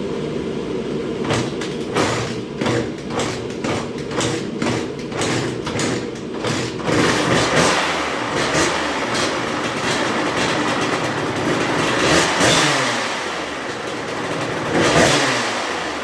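Kawasaki KX100's two-stroke single-cylinder engine running: a quick series of sharp cracks for about the first seven seconds, then steadier running with revs rising and falling.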